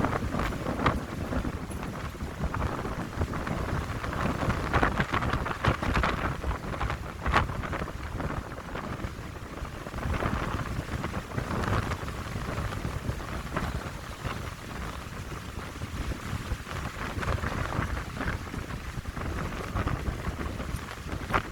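Wind in a pine grove: a gusting rush of needles and branches that swells and eases every few seconds, with low rumbling wind buffeting on the microphone.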